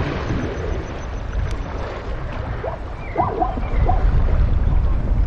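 Elephants playing in shallow river water: steady low rumbling and splashing noise, with a few short sliding squeals about three seconds in.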